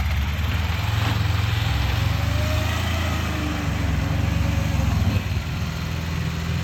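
LuAZ-969 'Volyn' 4x4's engine running as the vehicle drives, a steady low drone that changes note about five seconds in.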